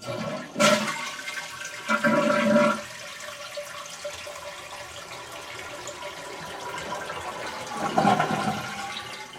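Toilet flushing with its water supply shut off: a rush of water, loudest for the first few seconds, then a steadier wash of water as the tank empties without refilling, swelling again near the end.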